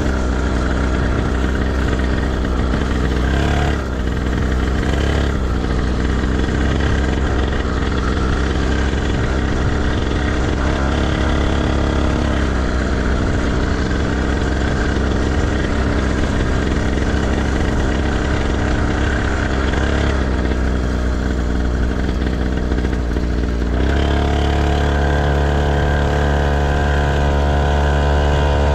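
Motocross bike engine running and revving. The sound dips briefly about four seconds in, and from about 24 seconds the engine note turns clearer and climbs in pitch.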